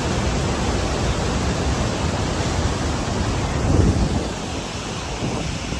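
Steady rushing noise, with a deeper, louder surge just before four seconds in.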